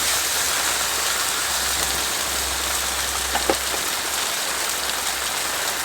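Steady rain falling on a tarp shelter.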